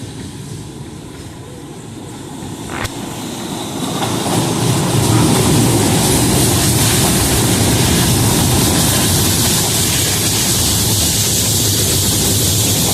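Tatra T3A tram running on its rails, the rumble of wheels and motors growing louder over the first five seconds as it gets under way, then holding steady. A single sharp click sounds about three seconds in.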